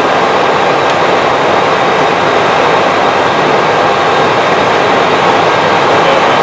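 Steady, even cockpit noise in an Airbus A320 flight deck: a constant rush of air and aircraft noise with no distinct tones.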